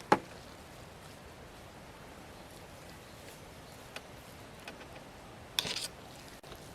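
A single sharp knock of hard objects, then a faint click, then a brief clatter near the end, over a low steady background.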